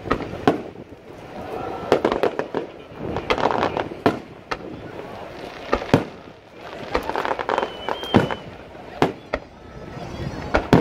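Aerial firework shells bursting with a dozen or so sharp bangs at irregular intervals, some close together, with crackling between the reports. Voices of onlookers can be heard under the bangs.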